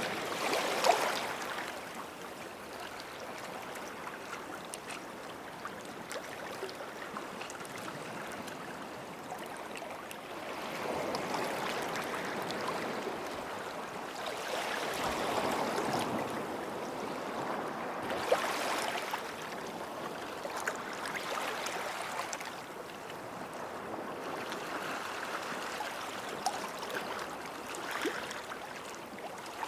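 Small waves washing onto a sandy shore, the surf swelling and easing every few seconds, with a few sharper splashes, the loudest about a second in.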